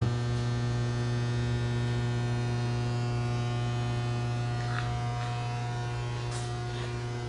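Steady electrical hum with a buzzy edge, holding one low pitch throughout, with a few faint brief sounds over the last couple of seconds.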